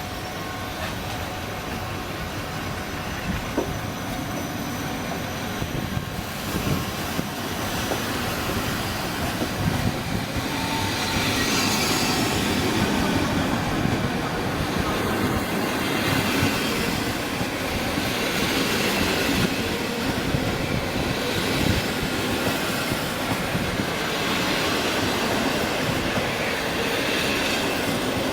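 A passenger train moving along the station tracks, wheels clattering over rail joints, with squealing from the wheels on the rails. The sound grows louder about six seconds in and stays loud.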